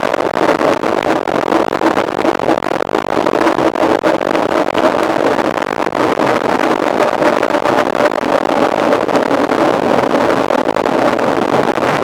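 Mountain bike ridden at race pace, heard from a camera on the bike or rider: steady wind rush over the microphone, with constant rattles and knocks from the bike over rough ground and a faint steady hum.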